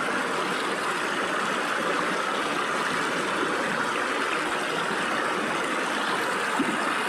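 Stream water flowing and splashing through gaps between rocks: a steady, even rush.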